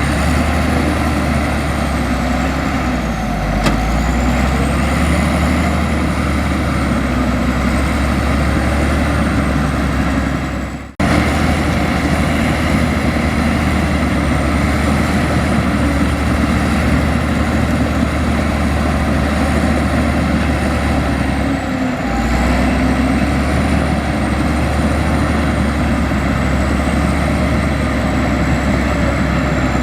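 Heavy diesel engine of a Komatsu bulldozer running steadily under load, a deep hum with a high whine above it that wavers up and down in pitch. The sound fades and breaks off abruptly about eleven seconds in, then resumes the same.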